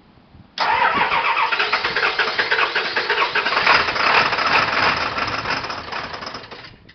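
1995 Ford Power Stroke 7.3-litre V8 turbodiesel being cranked by its starter on a cold start, with ether sprayed in. It cranks for about six seconds in rapid pulses, trying to fire but not catching, then the cranking tapers off and stops.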